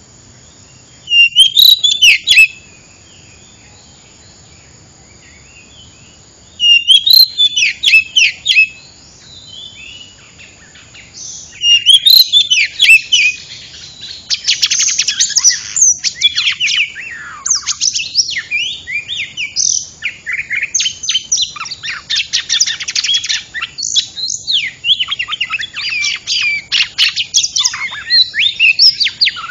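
Oriental magpie-robin song, fast varied whistles and chattering phrases. It comes in three short bursts with pauses between them, then becomes dense and almost unbroken from about 14 seconds in.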